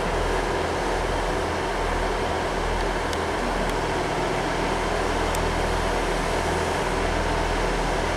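Steady drone of a diesel multiple unit standing at the platform with its engines idling and fans running, a constant low hum under an even rushing noise.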